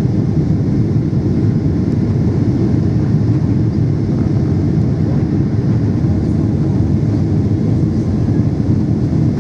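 Steady cabin noise inside a Boeing 777-300 climbing out: the jet engines running at high power and airflow over the fuselage, a dense low rumble with no separate events.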